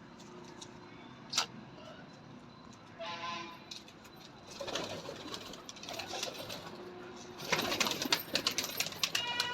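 Domestic pigeons cooing, with a short higher call about three seconds in and a flurry of sharp clicks and rustles over the last two seconds.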